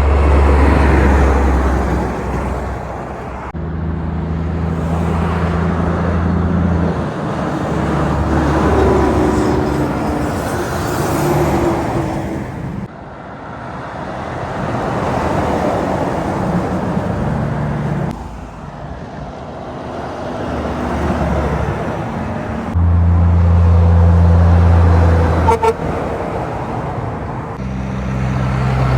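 Highway traffic: trucks and cars passing one after another, the engine and tyre sound swelling and fading several times, with a short horn toot about 25 seconds in.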